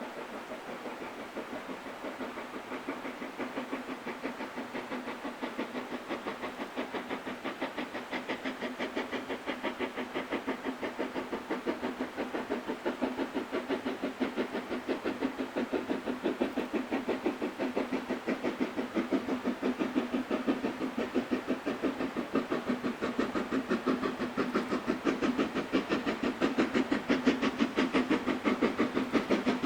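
Steam locomotive working under steam, its exhaust beating in a fast, even rhythm that grows steadily louder.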